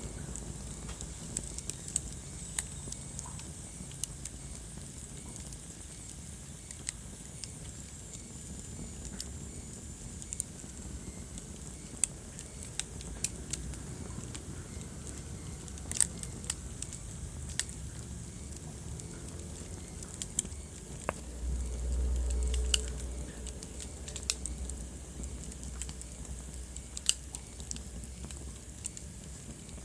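Wood fire burning in a fireplace: irregular sharp crackles and pops over a steady low rumble of the flames. The rumble swells for about two seconds past the middle, and a faint high whistle sounds for several seconds near the start.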